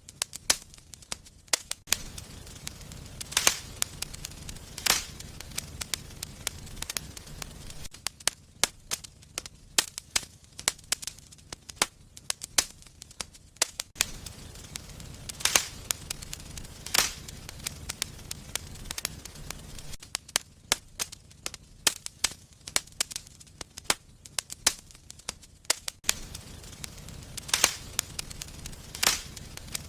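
Wood fire burning in a fireplace: constant crackling with sharp snaps and a few louder pops, over a low rumble of flames that comes and goes. The same stretch of pops repeats about every twelve seconds, as in a looped recording.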